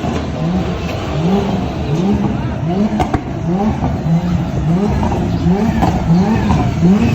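Nissan Silvia drift car's engine revved over and over in quick rhythmic pulses, about one and a half revs a second, each a short rising pitch. A sharp crack sounds about three seconds in, and another shortly before the end.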